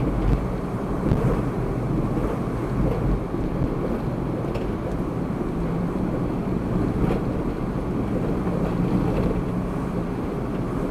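Steady rumble of a car driving, engine and tyre noise picked up by a dashcam, with no pauses or sudden events.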